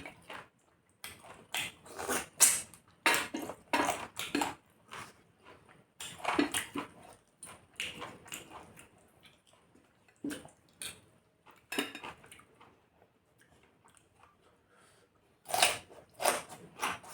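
Someone eating chicken curry and rice: chewing and lip smacks with short clicks and clinks against a plate, in clusters, with a quieter stretch near the end.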